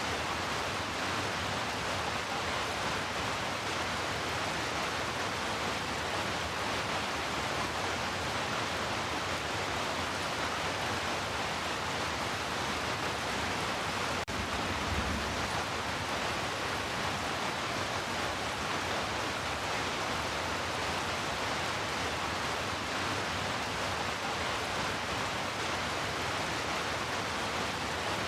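Steady hiss of heavy rain falling without a break, with a brief click and dropout about halfway through.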